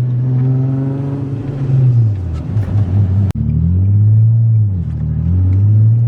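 Nissan 350Z's 3.5-litre V6 pulling under load with the engine note heard from inside the cabin; its revs sag twice as the clutch goes in for a shift, the car struggling to go into second gear. A sudden, very short break in the sound comes about halfway.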